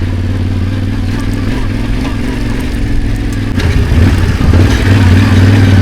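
Motorcycle engine pulling the bike up a rough, rocky track, revving higher and growing louder about two-thirds of the way through.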